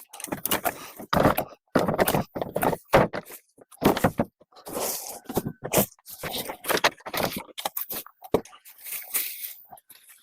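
Branches and brush being handled and pulled about: irregular scraping, rustling and snapping in uneven bursts, with no chainsaw running.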